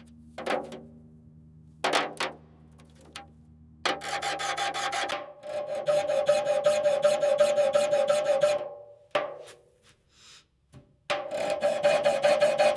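A few sharp knocks, then a hand tool scraping a surface in rapid rasping strokes for about five seconds. After a brief pause the scraping starts again near the end.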